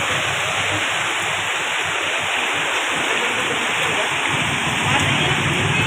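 Steady rushing noise of water, from flooding and rain. A low hum joins about four seconds in.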